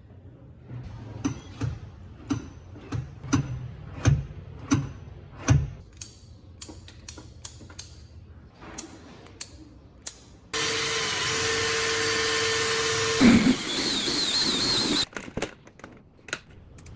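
Workshop sounds: a run of sharp taps and knocks, then a power tool that starts abruptly, runs steadily for about four and a half seconds and cuts off, followed by more taps.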